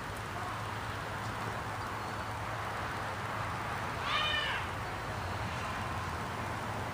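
Honeybees buzzing around an open hive, a steady hum. About four seconds in, one short animal call cuts across it.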